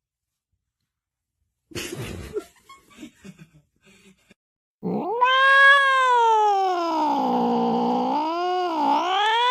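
A cat yowling: one long drawn-out caterwaul starting about halfway through, its pitch rising, then slowly falling and wavering twice near the end. A few short scuffling noises come before it.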